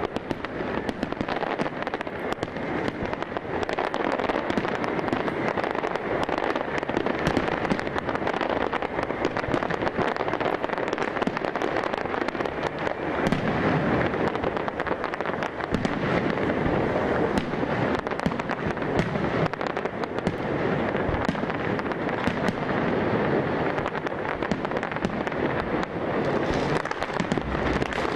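Fireworks display going off without a break: a dense, continuous run of bangs and crackling pops.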